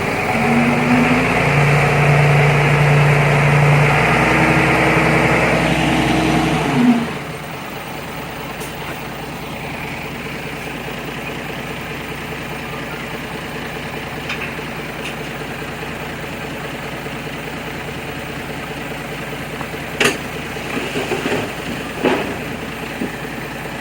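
Diesel engine of heavy earthmoving machinery working under load, then dropping suddenly to a steady idle about seven seconds in. Two short sharp knocks near the end.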